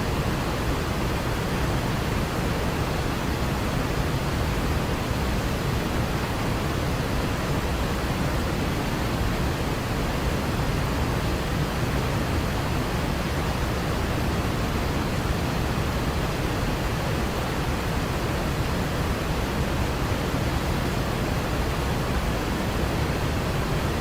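Waterfall, a steady, even rush of falling water with no change or break.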